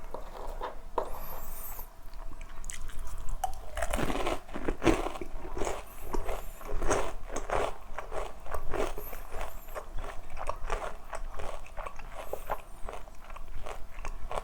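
Close-up crunching and chewing of crispy KFC fried chicken, a quick run of crisp bites and crunches that gets busier about four seconds in.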